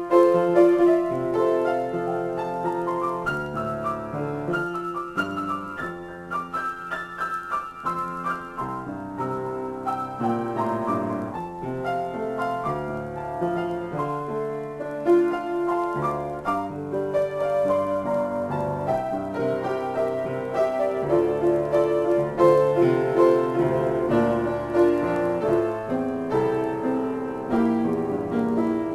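Solo piano playing an improvisation: chords and melody notes struck continuously, with the sustain letting notes ring into one another.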